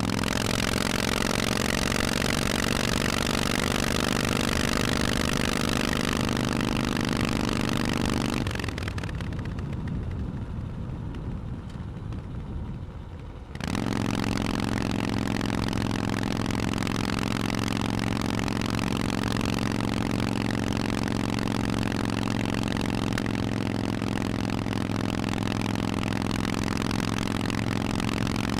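Harley-Davidson Forty-Eight's air-cooled 1200 cc V-twin running through Vance & Hines exhausts, with a steady engine note. About eight seconds in, the sound drops to a quieter, thinner stretch for around five seconds, then cuts back in suddenly at full level and runs steadily.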